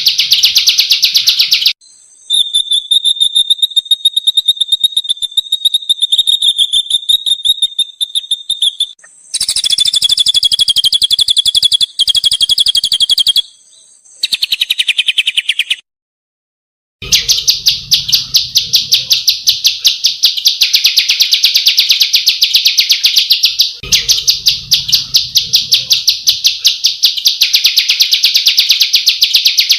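Small songbirds singing long, rolling trills of very fast repeated high notes, spliced together as separate takes with short breaks between them; the two longest rolls, near the end, each run about six seconds.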